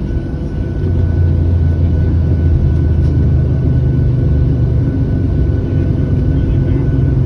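Cabin drone of a Boeing 737-700's CFM56-7B jet engines, a steady low hum with a faint high whine that grows louder about a second in and then holds.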